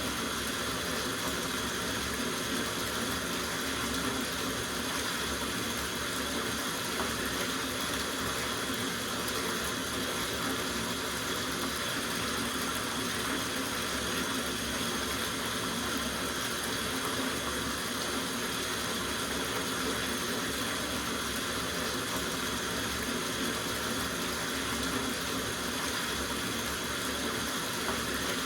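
Tap water running steadily into a soaking bathtub, a constant even rush with a slight hollow ring from the tub.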